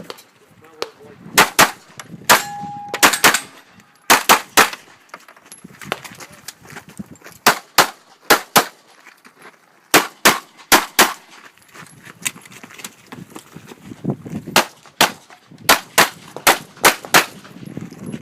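Glock 17 9mm pistol firing a string of shots, mostly in quick pairs with short pauses between them.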